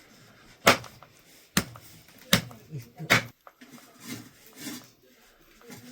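Four sharp knocks, a little under a second apart, followed by quieter faint handling sounds.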